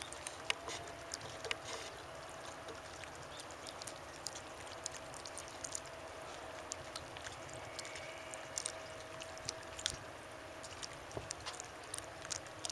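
Distant chainsaws running, a faint steady drone, with scattered light clicks over it.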